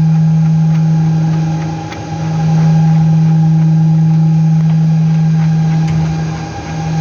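Steady low-pitched machine hum on one constant tone, dipping in level briefly twice.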